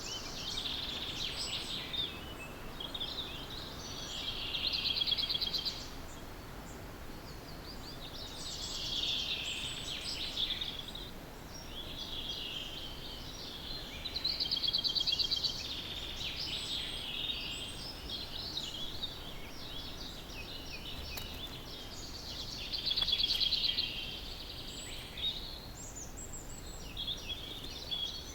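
Songbirds singing in a dawn chorus: one bird repeats a short, trilled song phrase every five to six seconds, with fainter chirps from other birds in between, over a steady low background hiss.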